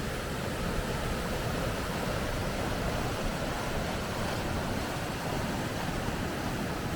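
Steady rushing of water over river rapids.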